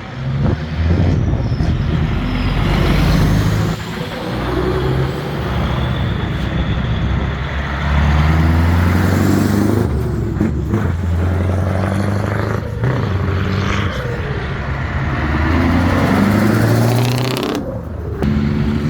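Old trucks' engines working hard, the pitch climbing and falling back again and again as they pull away and change gear. Near the end a strong hiss sounds.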